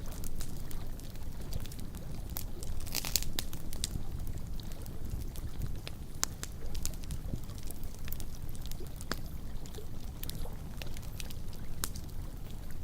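Log campfire crackling, with scattered sharp snaps and pops and a brief flurry of hissing pops about three seconds in, over a steady low wash of water lapping at the shore.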